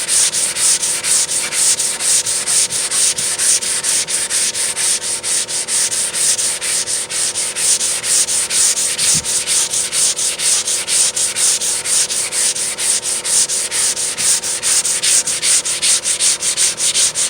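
Dry sandpaper on a hand sanding block being rubbed back and forth over cured polyester body putty on a van door, at a steady rhythm of about four strokes a second. This is block sanding of the filler down to level with the panel.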